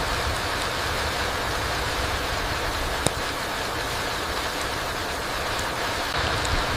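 Steady rain falling on a forest floor, an even hiss with a low rumble beneath, a few light drop ticks, and one sharp drip about three seconds in.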